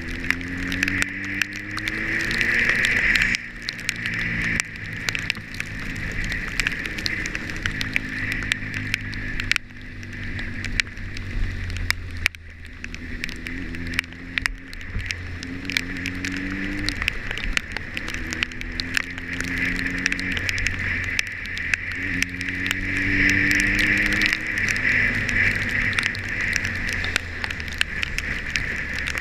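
Motorcycle engine running on the road, its pitch climbing as it accelerates and dropping back at each gear change, several times over. Steady wind noise and many sharp ticks run alongside.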